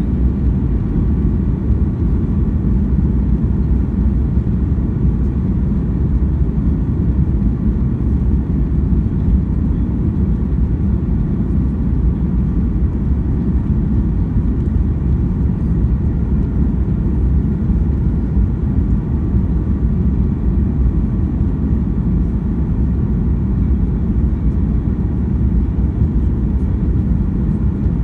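Steady cabin noise of a Boeing 737-800 in flight: an even, low rush of engine and airflow noise with a faint steady tone, unchanging throughout.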